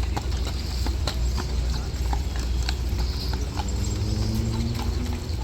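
Horse hooves clip-clopping on pavement, in sharp irregular knocks over a steady low rumble.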